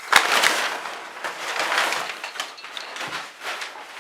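Packaging being handled as a shipping box is opened: a loud spell of rustling and scraping with a few sharp clicks over the first two seconds, then quieter crackling handling noise.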